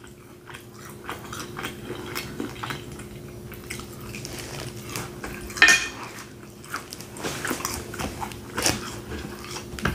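Close-miked chewing of steak, with wet mouth noises and short clicks of a metal fork and knife against the plate. A faint steady low hum runs underneath.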